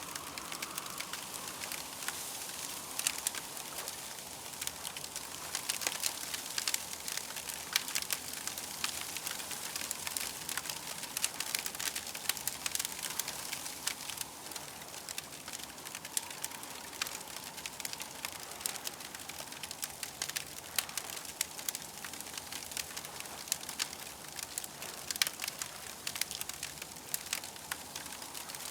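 Campfire crackling: frequent sharp pops and snaps over a steady hiss.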